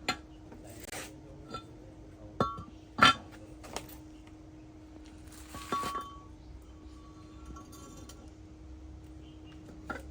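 A few sharp metal clinks with short ringing, the loudest about three seconds in, over a faint steady hum.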